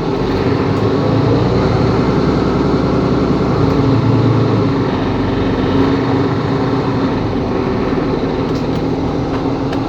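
Mercedes-Benz CapaCity L city bus's diesel engine running, growing louder over the first second or so and then holding at a steady drone.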